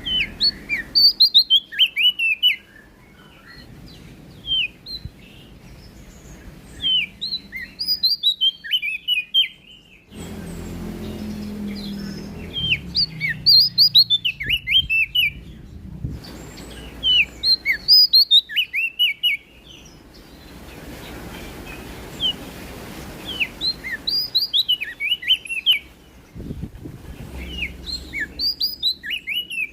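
Prenjak daun songbird singing in quick, chirpy runs of short sliding high notes, each run lasting a second or two and repeated every few seconds. A low, steady background noise runs underneath.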